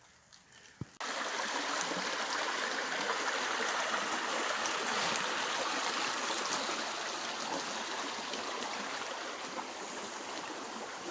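Steady rush of running water, starting suddenly about a second in after a faint click.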